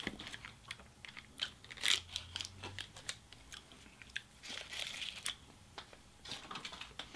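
Close-miked chewing of fast-food french fries: irregular soft crunches and wet mouth clicks. A brief rustle of paper wrapper comes a little after the middle.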